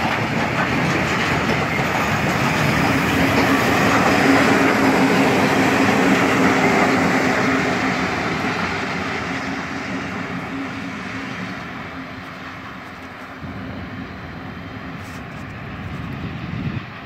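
Container freight train passing, its wagon wheels running over the rails, then the two trailing GM/EMD G26CW-2 diesel-electric locomotives with 16-cylinder EMD 645 engines going by in dynamic braking with a steady low hum. The sound is loudest about five seconds in and fades as the train moves away.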